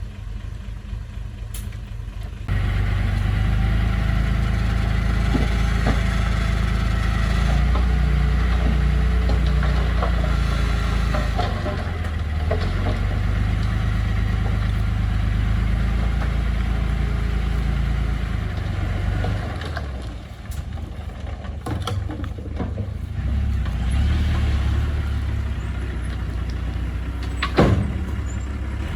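Construction machine's diesel engine running steadily, getting louder a couple of seconds in, easing off about two-thirds of the way through, then picking up again. A short sharp clack near the end.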